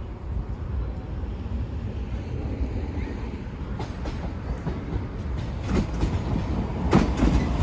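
A train passing over the level crossing: a steady low rumble, with wheels clicking over the rail joints from about halfway through and the clicks getting louder near the end.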